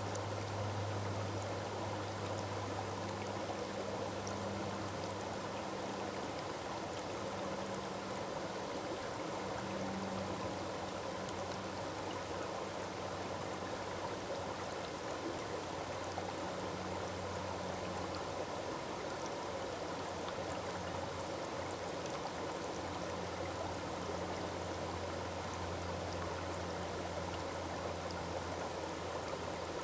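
Forest waterfall: water falling and rushing steadily, with a low rumble beneath the splashing.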